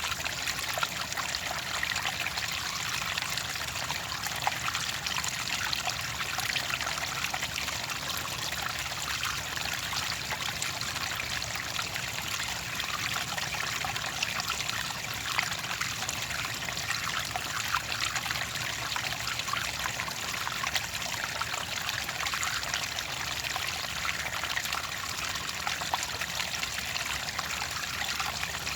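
Clear water trickling and babbling steadily over stones, like a small stream, with many small splashes and no change in level.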